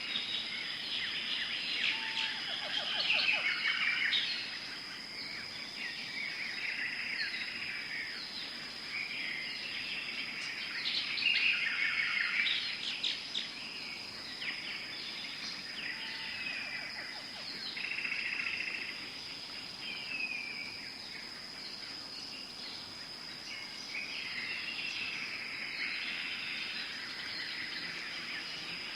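Tropical forest ambience: many birds calling and chirping over one another, with busier bursts of calls a few seconds in and again near the middle, over a steady high-pitched tone.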